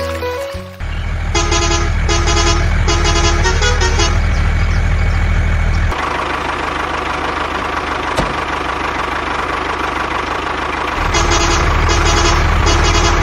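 A heavy truck's engine running with its horn honking in a quick run of short blasts, then again near the end.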